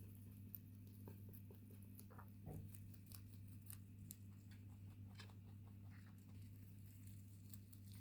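Electric fan running with a steady low hum, the noise that a rabbit's owner calls 'noisy fan', with faint scattered clicks and ticks over it.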